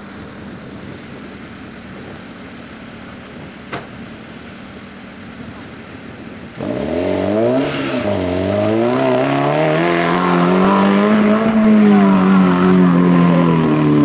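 Suzuki 4x4's engine revving off-road: the engine note starts suddenly about six and a half seconds in, dips, climbs and holds high, then falls away near the end. Before it there is a quieter steady rumble and one brief click.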